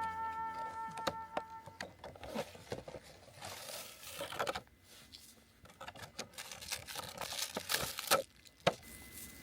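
Irregular rustling and crinkling of something being handled, with a few sharp clicks and knocks.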